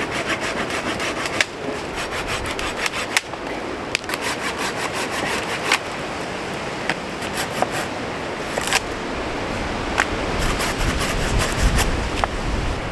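Hand saw cutting firewood in quick, rhythmic back-and-forth strokes.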